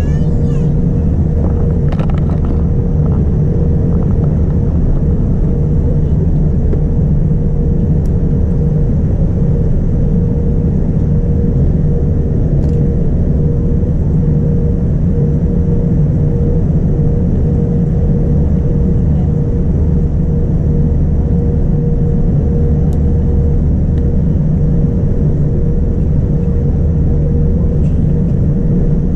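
Boeing 787-9 cabin noise: the steady rumble of jet engines and airflow, with a constant hum, heard from inside the cabin. A few faint clicks about two seconds in.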